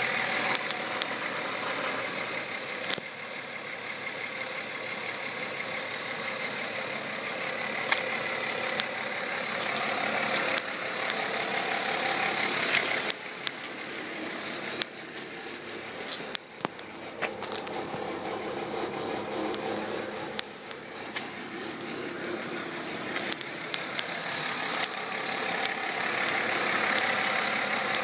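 Mercedes-Benz C36 AMG's M104 3.6-litre straight-six engine idling steadily, its loudness drifting up and down a little, with a few brief sharp clicks.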